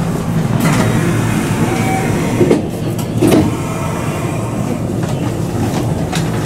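Steady running rumble and hum of an electric local train heard from inside the car as it moves slowly through a station, with two short knocks near the middle.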